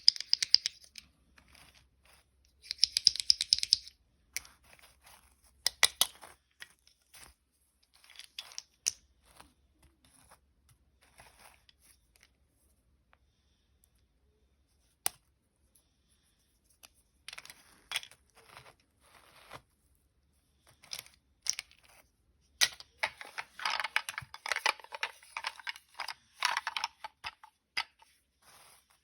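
Hands handling small plastic toy vehicles and parts: scattered sharp clicks and taps, with longer stretches of scratchy rustling or scraping about three seconds in and again from about 23 to 27 seconds.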